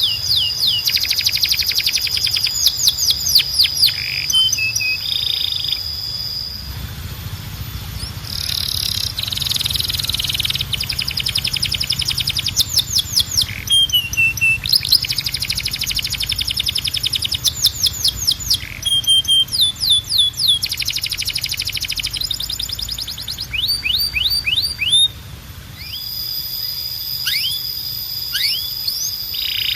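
Domestic canary singing: rapid trills of repeated downward-sweeping notes, broken by held whistled notes and short pauses.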